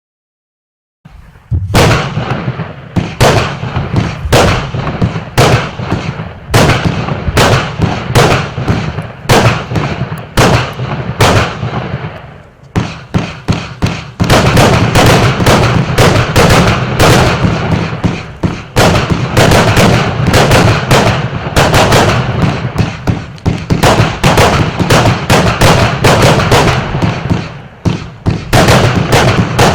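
FP-B211 'Blue Sea' multi-shot fireworks battery firing: a string of sharp shots and bursts begins about a second in, roughly two a second at first. About halfway through they come thicker and louder, with a quick flurry near the end.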